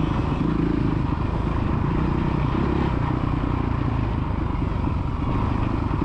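Engine of a small kids' motocross bike running steadily on the track.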